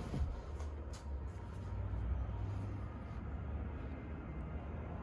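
Low steady rumble with a few faint clicks in the first second or so.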